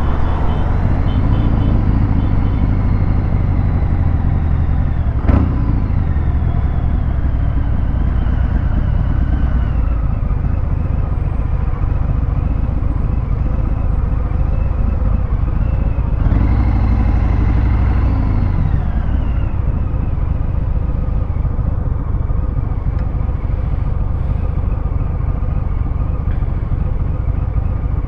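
Harley-Davidson Fat Bob 114's Milwaukee-Eight V-twin running through a Vance & Hines Hi-Output 2-into-1 exhaust, rising briefly in revs and then winding slowly down, twice. There is one sharp click about five seconds in.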